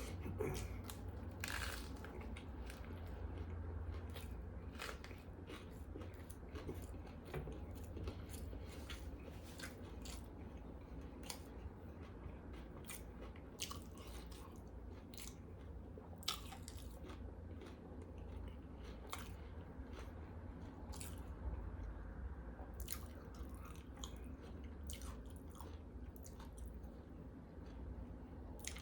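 Close-miked chewing and biting of a BLT sandwich with cheese: wet, crunchy mouth noises with many short sharp clicks, over a steady low hum.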